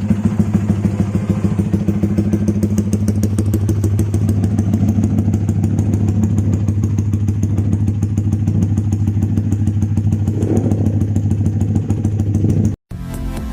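Yamaha Vixion single-cylinder motorcycle idling steadily through an Austin Racing aftermarket exhaust, a fast, even exhaust beat. It cuts off abruptly near the end.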